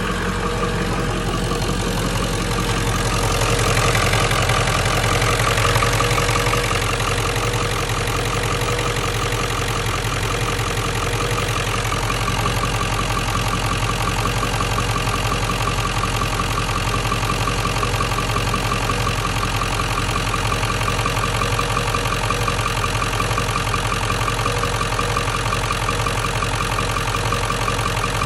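1997 Ford F-350's 7.3L Powerstroke V8 turbo-diesel idling with its serpentine belt removed: steady diesel clatter, a little louder for a few seconds near the start, then settling. With the belt off the chattering knock is gone, which points to the alternator's failed bearing as its cause.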